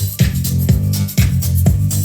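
Electronic dance music with a steady kick drum about twice a second, a sustained bass line and ticking hi-hats, played back through Yamaha FX-3 loudspeakers as a test after their capacitors were replaced and the midrange driver repaired.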